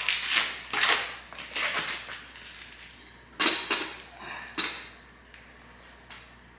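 Clatter and scraping of camp cookware and utensils, in a few short bursts, the loudest near the start and about three and a half seconds in.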